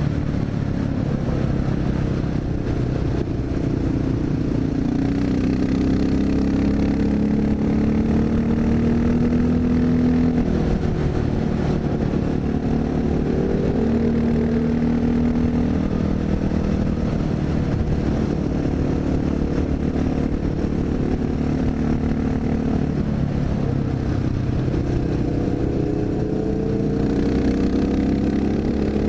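Honda XR650L's single-cylinder engine under way on a winding mountain road, its pitch rising and falling again and again as the throttle is opened and closed through the curves.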